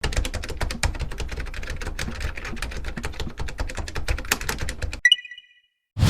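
Typewriter sound effect: rapid keystrokes clattering for about five seconds, then a single bell ding.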